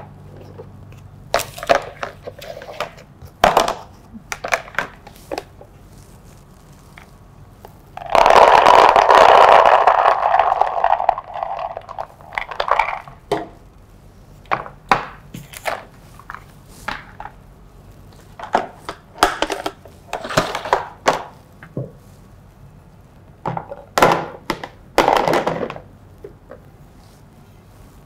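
Scattered knocks, clicks and taps of kitchen items being handled, with a loud rushing, rustling noise about eight seconds in that lasts some three seconds and fades.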